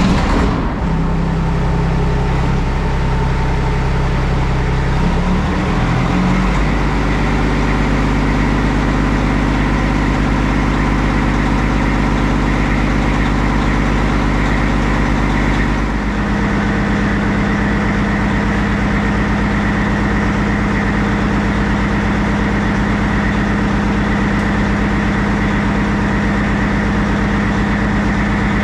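Semi-truck diesel engine running steadily, its pitch stepping to a new steady level about 6 seconds in and again about 16 seconds in.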